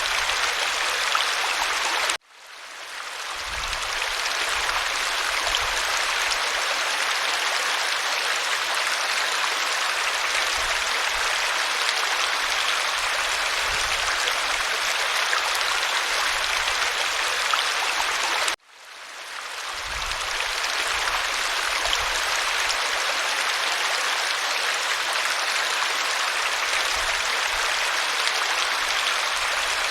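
Waterfall: a steady rush of falling water. It cuts out abruptly twice, about two seconds in and again about sixteen seconds later, and each time fades back in over a second or two, as a looped recording restarts.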